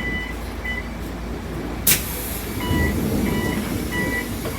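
Interior of a moving public bus: steady engine and road rumble, with short electronic beeps repeating on and off, and a single sharp click about two seconds in.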